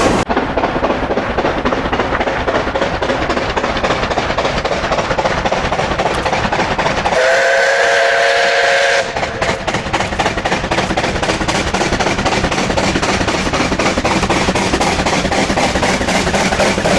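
Steam locomotive running, its exhaust beats and wheels on the rails making a steady, rapid beat. About seven seconds in, its whistle sounds once for about two seconds, several tones together.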